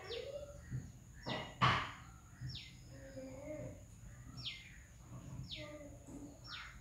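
A bird calling over and over: short chirps that fall in pitch, about one a second. A single sharp tap comes about a second and a half in.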